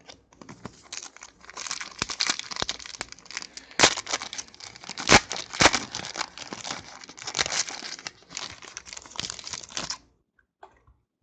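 Foil wrapper of a trading-card pack being torn and crinkled, a dense run of sharp crackles that stops about ten seconds in.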